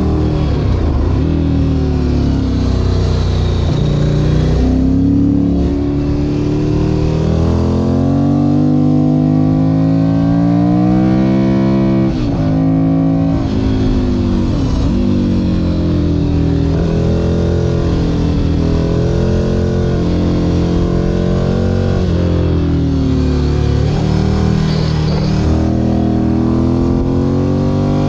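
Ducati Monster 1100 EVO's air-cooled L-twin engine heard from on board while riding through curves, its pitch climbing under throttle and falling back again and again. It drops sharply on the throttle and gear changes, most clearly about 12 and 15 seconds in.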